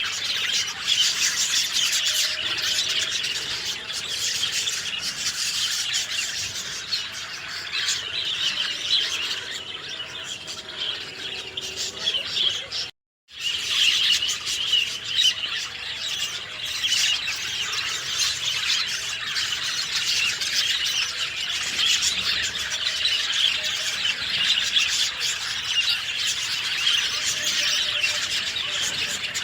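A dense chorus of many small songbirds chirping and twittering without a break. About halfway through, the sound cuts out completely for a split second, then the chorus resumes.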